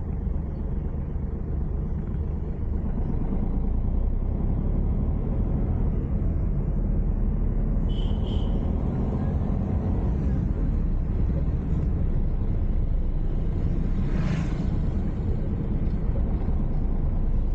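Car driving along a road, a steady low rumble of engine and tyres. A brief high chirp comes about eight seconds in, and a short rush of noise about fourteen seconds in.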